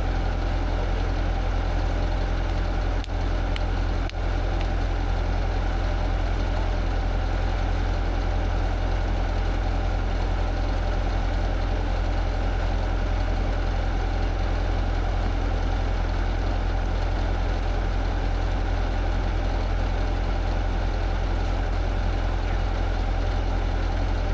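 Skid steer engine running steadily at idle with a deep low rumble. It briefly dips in level twice, about three and four seconds in.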